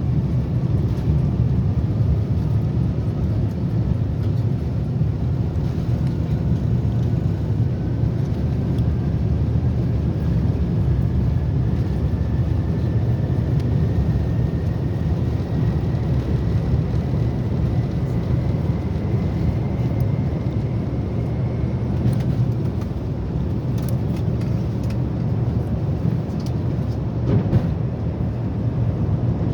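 Airbus A350-900's Rolls-Royce Trent XWB jet engines heard inside the cabin: a loud, steady rumble with a thin whine that slowly rises in pitch over about twenty seconds, then fades.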